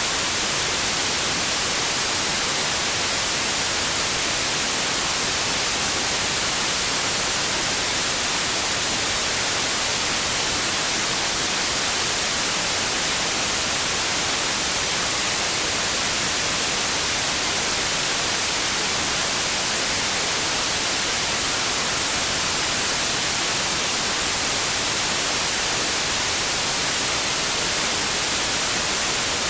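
Steady, unbroken white noise: an even hiss that does not change.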